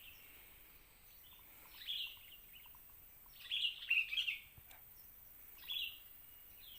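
Birds chirping: short clusters of high chirps about two seconds in, a busier and louder run around the middle, and another brief cluster near the end.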